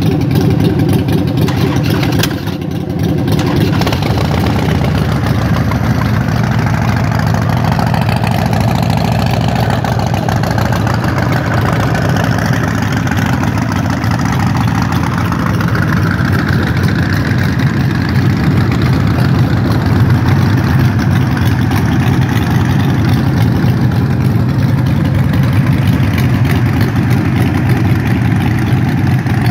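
V-twin cruiser motorcycle engine idling steadily, with a brief dip in level about two seconds in.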